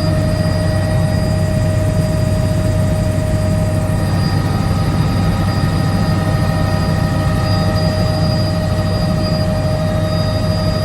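Helicopter in flight, running steadily: a constant low rotor drone with several steady whining tones above it.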